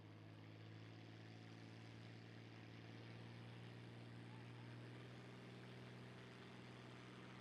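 An engine idling steadily, heard faintly as an even low hum.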